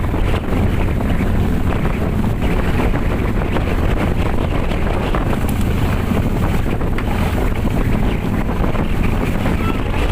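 Strong wind buffeting the microphone aboard a boat at sea, a loud, dense, steady rumble.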